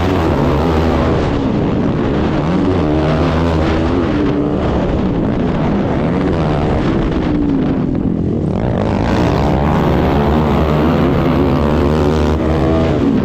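ATV engine revving hard under throttle, its pitch rising and falling. About eight seconds in it drops off briefly and then climbs again.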